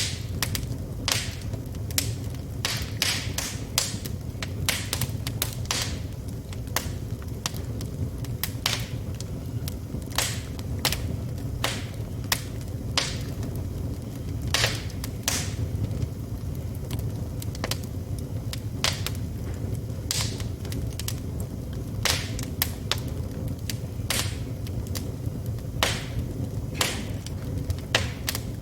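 Wood fire burning in a fireplace: irregular sharp crackles and pops, a few louder snaps, over a steady low rumble of the flames.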